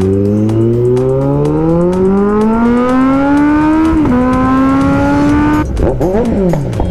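Motorcycle engine accelerating hard, its pitch climbing steadily for about four seconds, dropping briefly at an upshift, then holding steady. Near the end several engine notes cross each other, rising and falling, as vehicles pass.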